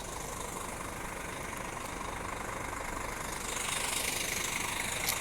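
Scania G 410 truck's inline-six diesel engine idling steadily; a hiss comes up about three and a half seconds in, and there is a single sharp click near the end.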